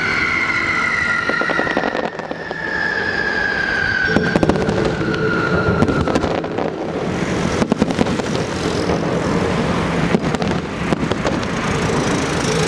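Fireworks: long, slowly falling whistles, then from about four seconds in a dense, rapid crackling of firecrackers that keeps going.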